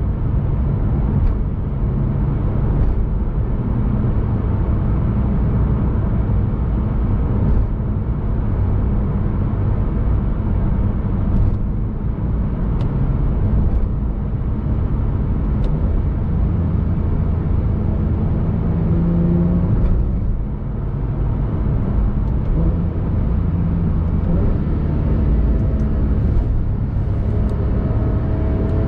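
Porsche 991 Carrera S's 3.8-litre flat-six running through an Armytrix aftermarket exhaust at steady highway cruise, with a continuous drone and road noise. Near the end the engine note climbs as the car accelerates.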